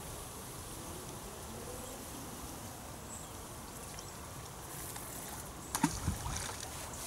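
Outdoor ambience with a faint, steady insect buzz, broken by two short sharp knocks close together about six seconds in.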